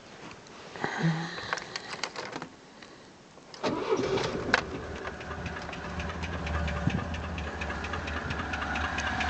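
ZMZ-406 2.3-litre inline-four petrol engine starting suddenly about a third of the way in, after a few short clicks and rattles, then running with a rapid regular knock. The owner places the knock around the fourth cylinder and thinks it sounds like a piston pin knocking in its connecting rod.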